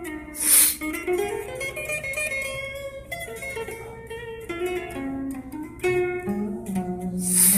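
A guitar played with sustained, ringing plucked notes, one of them sliding up in pitch about a second in. A loud, short, bright noise sounds about half a second in and again near the end.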